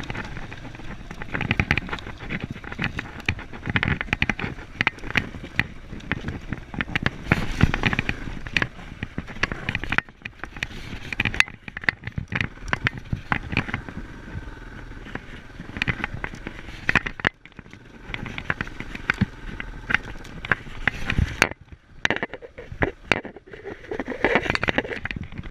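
Yamaha Serow enduro motorcycle being ridden over rough ground, its engine running under a dense, irregular crackle of knocks and wind buffeting on the camera microphone.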